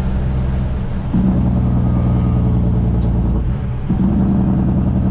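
Straight-piped semi truck's diesel engine running steadily while driving, with two short dips in level, about one second in and about three and a half seconds in, each time picking back up.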